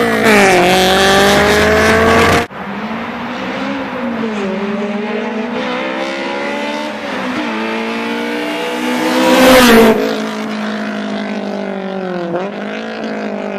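Honda S2000 four-cylinder engine through a custom race exhaust, driven hard with the revs climbing and dropping repeatedly. The loud run cuts off suddenly after about two and a half seconds, the engine continues quieter, and there is a brief loud swell near the end as the car comes close.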